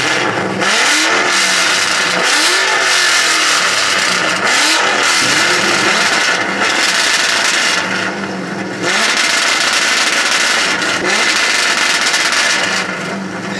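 Vehicle engine revved hard again and again, each rev rising and falling in pitch, over a loud steady rushing noise. It eases off briefly about eight seconds in.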